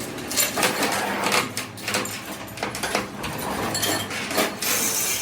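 Irregular metallic clinks and knocks, about two a second, as metal parts and tools are handled and struck against each other.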